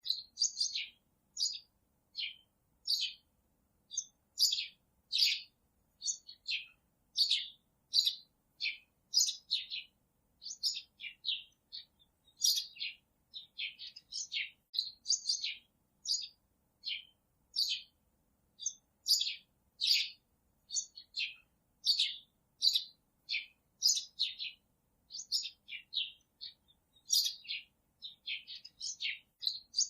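Small birds chirping: a steady run of short, high chirps, one to three a second, with clean silence between them.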